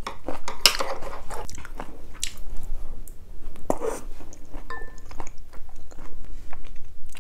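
Close-miked chewing and mouth sounds of someone eating abalone rice porridge by the spoonful: irregular wet smacks and clicks.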